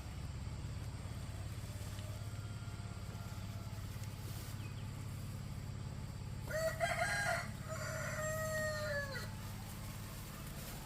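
A rooster crowing once, about six and a half seconds in, its call held for a couple of seconds and falling at the end, over a steady low hum.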